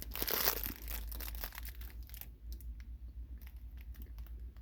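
Candy packaging being handled: a burst of crinkling for the first second or so, then scattered small crackles and rustles.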